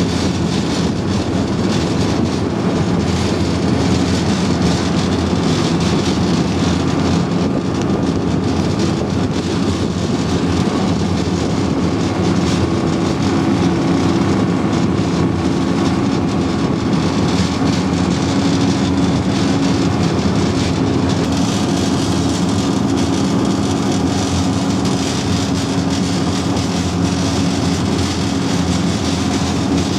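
Type 94 amphibious mine-laying vehicle's engine running steadily under way, a low drone over a constant rushing noise.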